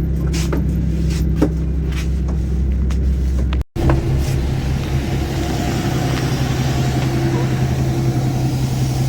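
A motor vehicle's engine running at a steady low hum, cut off abruptly about four seconds in and picked up again by a similar steady hum.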